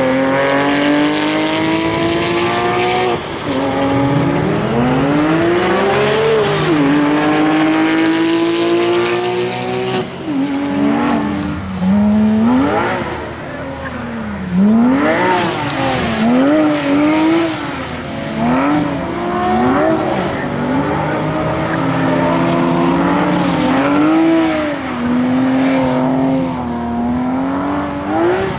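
A car accelerating hard with its engine pitch climbing, dropping at a gear change about three seconds in and then climbing again. From a sudden change about ten seconds in, a Porsche 991 GT3's naturally aspirated flat-six revs up and down rapidly and repeatedly as the car drifts on wet tarmac.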